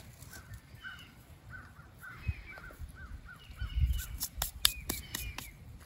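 A bird calling outdoors in a quick run of short repeated notes, about three a second. Partway through come a few sharp clicks and a low thump.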